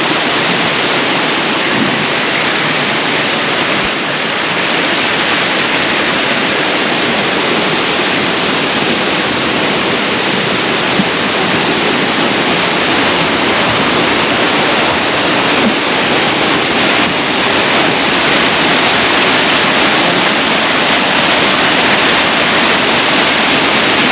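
Wagner Falls, a 20-foot waterfall on Wagner Creek, pouring steadily: a loud, even rush of falling water.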